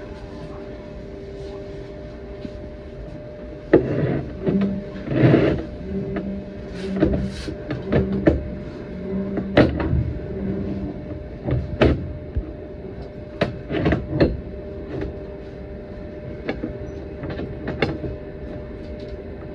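Electric commuter train running along the line, heard from inside the car: a steady motor hum with scattered clacks and knocks from the wheels and running gear.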